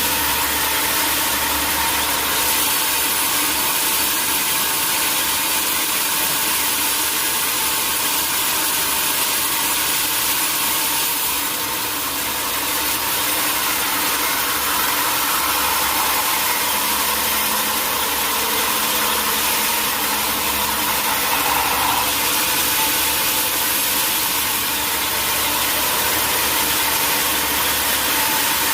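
Sawmill machinery running steadily, an engine-driven saw making a constant noisy hiss. In the second half a tone slowly sinks in pitch, then snaps back up about three-quarters of the way through.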